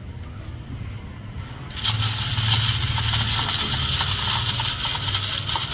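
Small battery-powered DC motor spinning a propeller inside a homemade plastic-bottle vacuum cleaner, switched on about two seconds in and then running steadily with a high whirring hiss.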